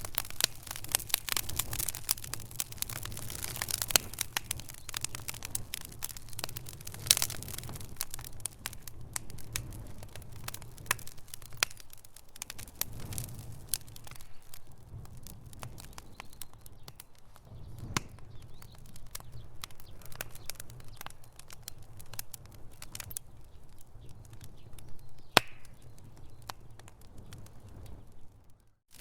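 Wood fire in a fireplace crackling, with a low steady rumble of flame under many sharp snaps and pops. The snaps are thick for the first dozen seconds and then thin out. One sharp pop near the end is the loudest.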